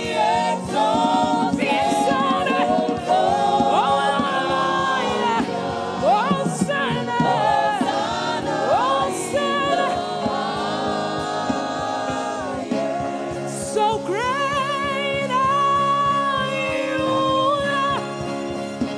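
Gospel worship music: voices singing together in held, sliding lines over a steady instrumental backing.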